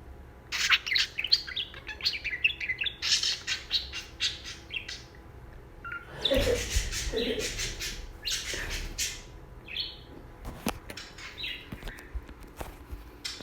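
Pet budgerigar chirping and chattering in rapid strings of short, high calls, worked up and excited. A soft rushing noise runs underneath from about six to nine seconds in.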